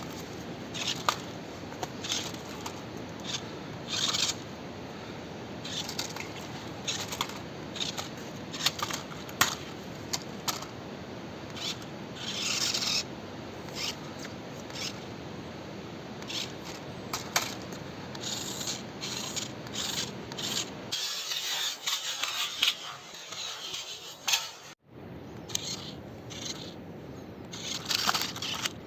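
Toy RC monster truck driving over rough ground: a steady motor hum with frequent short scraping and crunching clicks from the tyres and body on dirt and rocks. The hum stops for about three seconds around two-thirds of the way through, while the scraping goes on.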